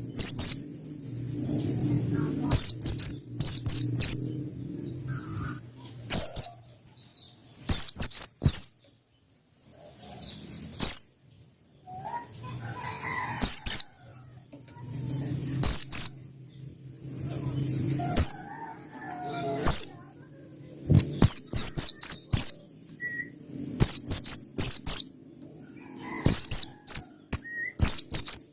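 Pleci (white-eye) from Pacitan singing: short clusters of very high, quick chirps with sharp downward sweeps, repeated every second or two.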